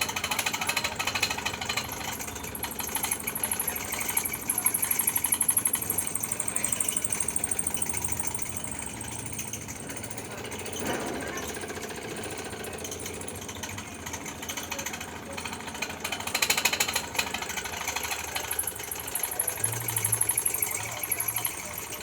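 Electric arc welding: the arc crackles and sputters continuously, rising and falling in loudness.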